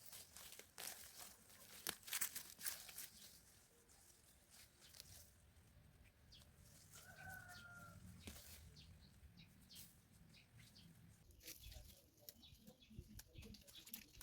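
Near silence with faint scattered clicks and rustles, and a single short bird call about seven seconds in.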